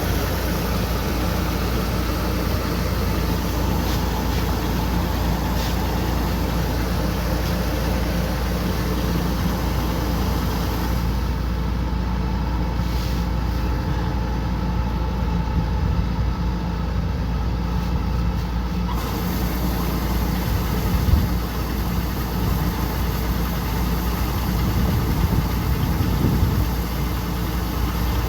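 Kubota combine harvester's diesel engine running steadily with a low rumble, with a single louder knock about two-thirds of the way through.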